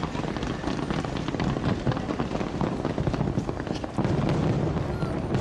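Fireworks going off in a dense crackle of many small pops, growing louder about four seconds in.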